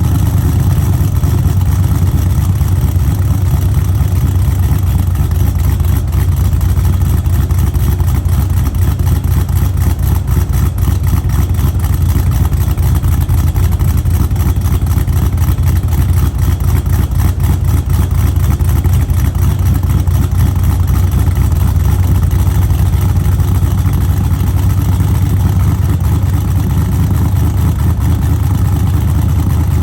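1974 Chevrolet C10's 350 small-block V8 running steadily while still cold from a cold start, with a deep, even exhaust note.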